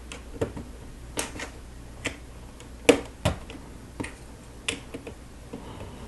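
Lego bricks being handled and pressed together by hand: a series of sharp plastic clicks at irregular intervals, the loudest about three seconds in.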